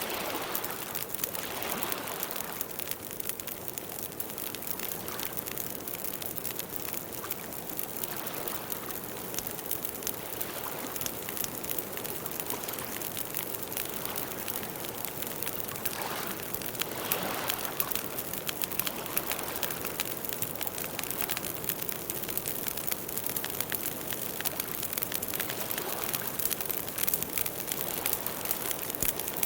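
Campfire burning: a steady dense crackle of burning wood with sharper pops, and now and then a soft rushing swell that lasts a second or two.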